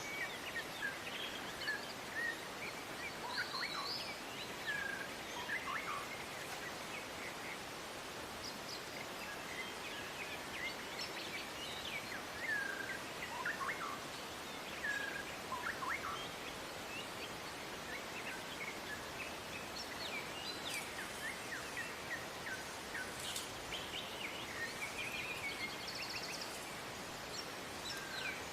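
Wild songbirds calling: scattered short chirps and brief gliding whistles, several birds at once, over a steady background hiss.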